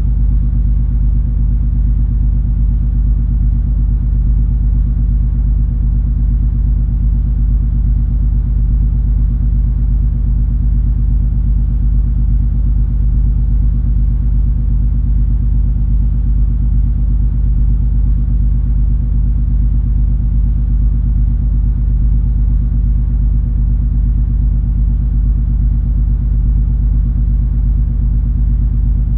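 Steady low rumble and drone of the MS Color Fantasy cruise ferry under way, heard on board, with a constant low hum and no change in pitch or level.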